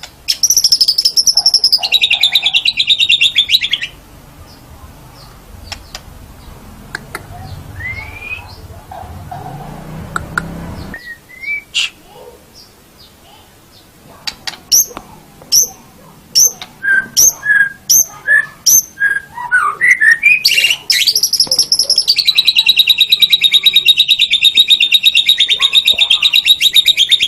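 White-rumped shama (murai batu) singing: a long, loud, rapid trill opens the song, then scattered whistled notes and a quick run of sharp repeated notes, before another long rapid trill takes over about 21 seconds in. A faint low rumble underneath stops suddenly about 11 seconds in.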